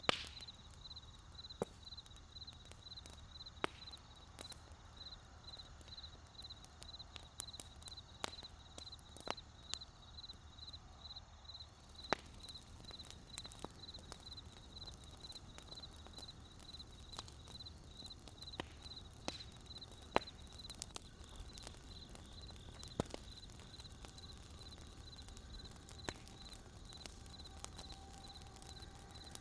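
Campfire of burning wood crackling, with irregular sharp pops, the loudest right at the start. Behind it a high chirp pulses steadily about two or three times a second.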